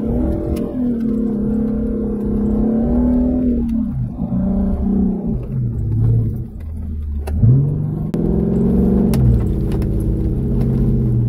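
Jeep's 392 V8 engine under way, the engine note climbing as it accelerates and dropping back as it eases off, three times over.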